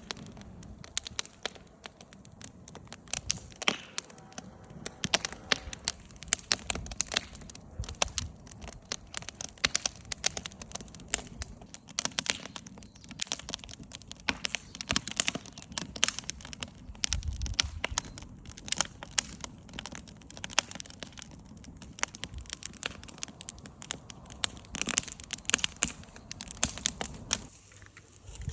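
Wood campfire crackling, with dense, irregular sharp snaps and pops.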